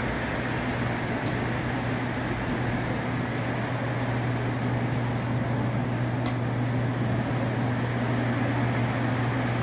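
Steady low mechanical hum and whir in a miniature railroad exhibit hall, with a few faint clicks.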